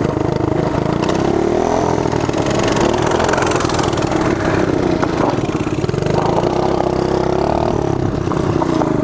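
Small mini bike engine running steadily, its pitch lifting a little about two seconds in and again near the end.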